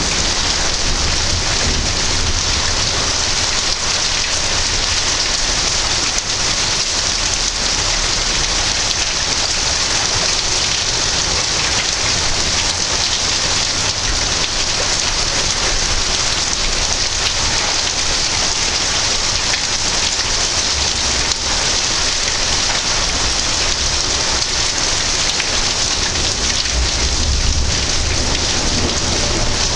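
Steady heavy rain falling during a thunderstorm, with low rumbles of thunder underneath that swell now and then, most strongly near the end.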